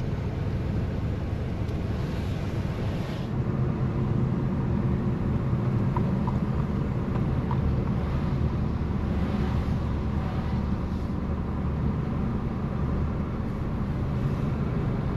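Vehicle driving on the road, a steady low engine and road rumble that gets a little louder about four seconds in.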